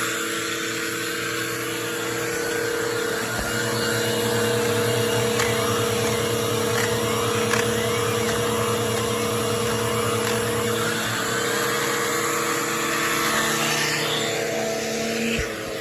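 Bissell PowerForce Turbo bagless upright vacuum running steadily: a motor whine with a constant hum and rushing air. The sound drops slightly in level near the end.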